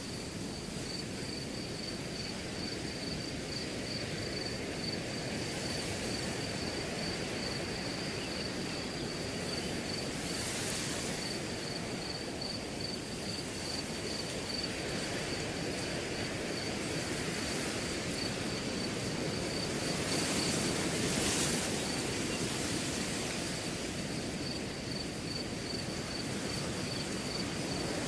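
Wind blowing steadily through a grass field, rising in two gentle gusts, with crickets keeping up a steady high, rapidly pulsing chirp.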